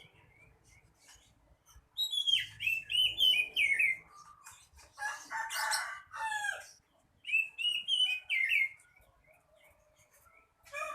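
Oriental magpie-robin (kacer) singing in three separate phrases of quick, varied whistles and rattling notes, with short pauses between them.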